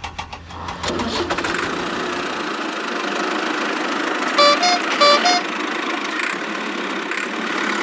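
Cartoon sound effect of a vehicle engine running steadily, with two short horn beeps a little past halfway.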